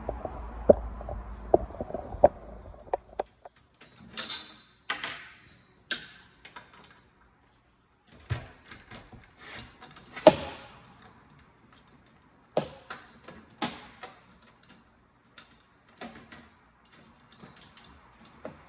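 Hands and tools working on a portable power station: irregular sharp clicks and knocks with a few short scraping sounds, over a low hum in the first few seconds.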